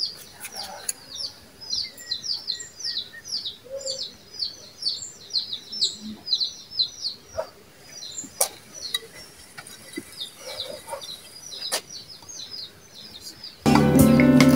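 A small bird chirping a rapid run of short, high, falling notes, about three a second, thinning out after the middle. About a second before the end, loud music with singing starts abruptly.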